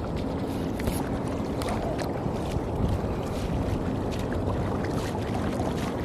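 Steady rush of wind and water at an estuary, with a faint low hum and scattered small clicks and splashes.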